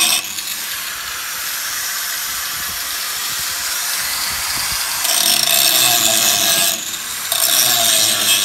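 Power tool working steel bar stock: a steady grinding run, then two louder, higher-pitched stretches with a whine, broken by a short pause just before the end.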